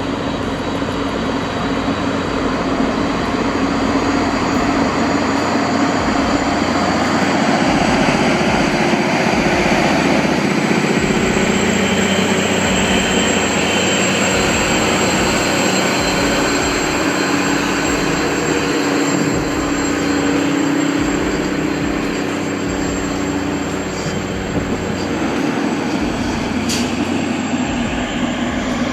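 Heavy-haul truck diesel engines running under load: a steady, loud deep rumble mixed with rolling noise.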